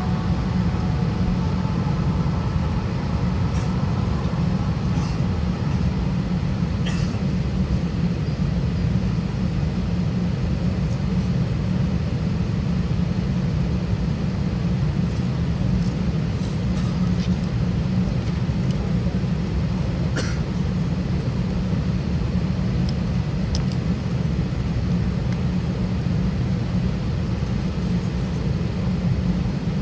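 Steady low rumble inside the cabin of an Airbus A320 on the ground, with a few faint clicks.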